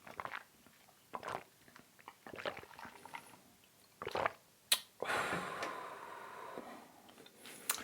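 Close-up chewing of thin-crust seaweed pizza: irregular wet mouth sounds and bites, a sharp click a little before halfway, then a steadier noisy stretch lasting about two seconds.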